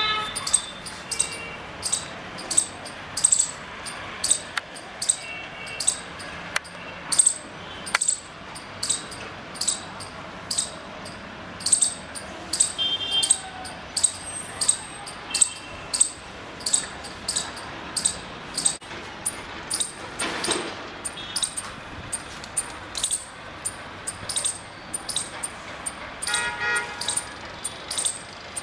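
Indian palm squirrel chirping: a long run of short, sharp, high-pitched chip calls repeated about twice a second, the squirrel's alarm chatter.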